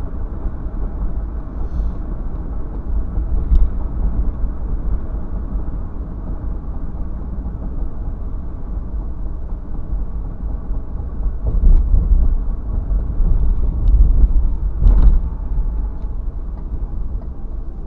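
Steady low rumble of a car on the move, with a few short knocks about two-thirds of the way through and near the end.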